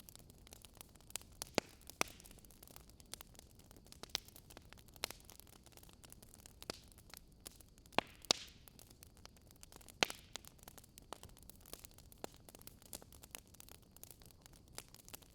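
Wood fire crackling: irregular sharp pops and snaps over a faint hiss, with a few louder pops about a second and a half in, around eight seconds and at ten seconds.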